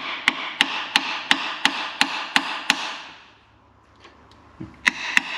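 Hammer tapping on an engine bearing cap to loosen it, about three sharp ringing taps a second; the tapping stops for about two seconds and starts again near the end.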